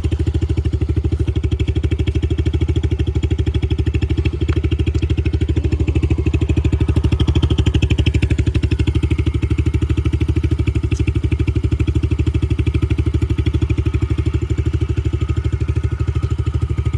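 Yamaha TT-R110 dirt bike's small single-cylinder four-stroke engine idling steadily, with an even putter, just after being restarted following a flooded carburetor.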